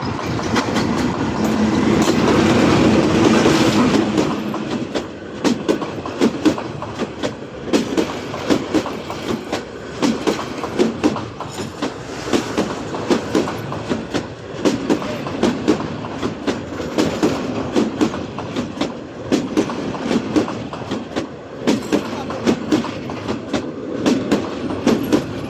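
Local passenger train rolling along the track, its wheels clattering over rail joints in a repeating clickety-clack over a steady rumble, with a louder rush of noise in the first few seconds.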